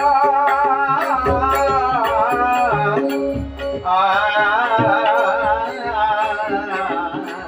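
Traditional Marathi bhajan music: a voice sings a wavering, ornamented melodic line over steady held tones. Drum strokes and a regular ticking of small hand cymbals keep time.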